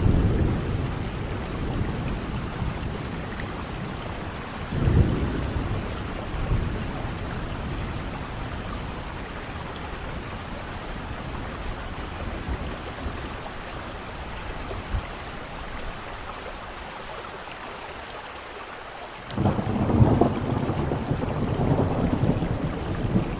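Steady heavy rain hissing, with rolls of thunder rumbling low underneath. Thunder rumbles near the start and about five seconds in, then a loud roll of thunder breaks out suddenly near the end.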